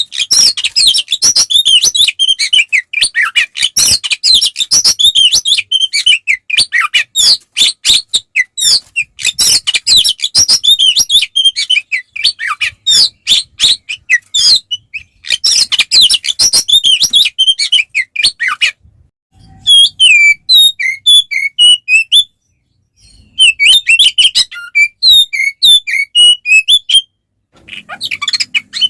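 Oriental magpie-robin (kacer) singing loud and fast, a dense unbroken stream of chirps, trills and whistles: the aggressive fighting song (ngeplong tarung). About two-thirds of the way in the song breaks off briefly, then goes on in slower, separate whistled notes with two more short pauses.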